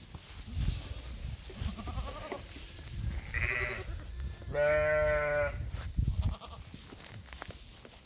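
Young penned livestock bleating: a few separate calls, the longest and loudest, about a second long, coming about halfway through.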